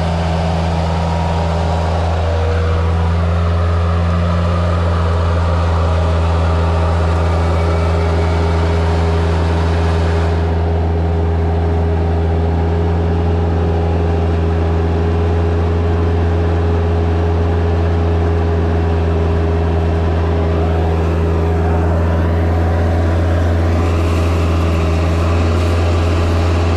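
Motor vehicle engine running at a steady speed, a constant low drone with no change in pitch.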